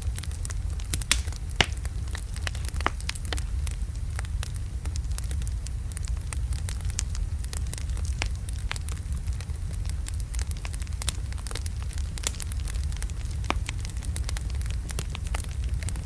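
Wood fire burning in a fireplace: a steady low rumble of the flames with frequent sharp crackles and pops from the logs, a couple of louder pops about a second or two in.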